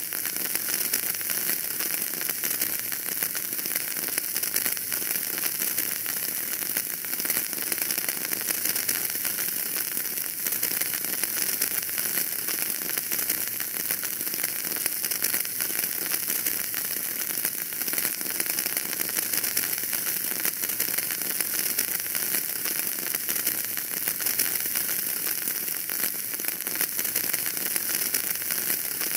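Fire burning in a fireplace, crackling steadily: a dense run of small crackles over a constant hiss, with no change through the stretch.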